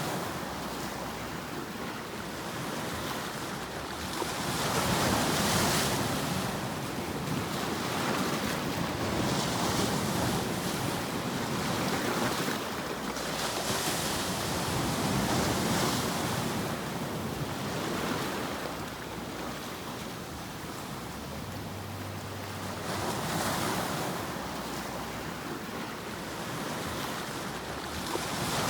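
Continuous rushing white noise that swells and fades every few seconds, like surf.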